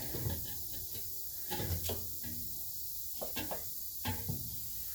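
A few short, light clunks and knocks of metal brake parts being handled and set in place, as a brake caliper is fitted back over the disc rotor.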